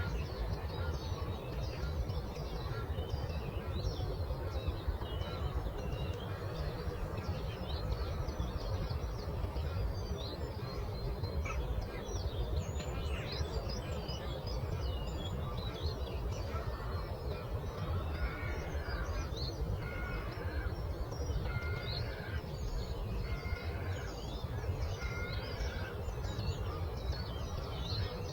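Many songbirds chirping and singing at once in quick short calls, with a run of clear repeated whistled notes in the second half, over a steady low rushing noise.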